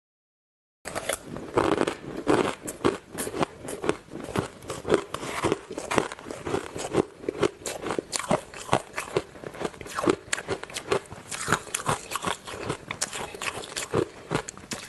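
Close-miked crunching of ice being bitten and chewed, a rapid, irregular run of sharp crunches starting after a moment of dead silence.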